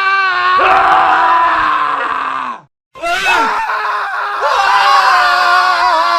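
Two drawn-out male screams in a row: the first cuts off abruptly about two and a half seconds in, and after a brief silence a second scream begins, its pitch wavering.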